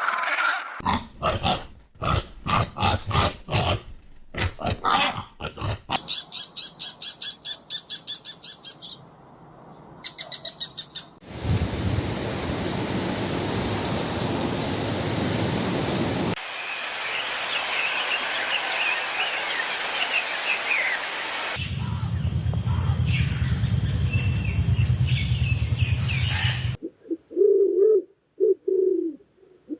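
A string of short, unrelated clips cut one after another: rhythmic pulses, a fast high-pitched repeating trill, stretches of steady noise, and birds chirping in the middle. A few short mid-pitched calls come near the end.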